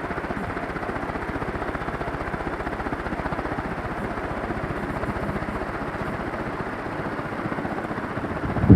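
CEC Deluxe 56-inch ceiling fan with curved blades running at speed: a steady, fast, rhythmic whoosh of air from the blades.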